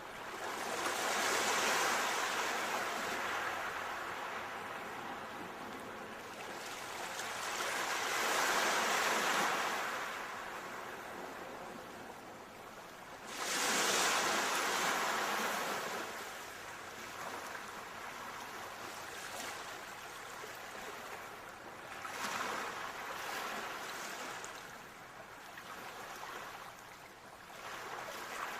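Ocean waves breaking and washing up a shore in slow surges, one every six seconds or so, the loudest crashing in sharply about halfway through.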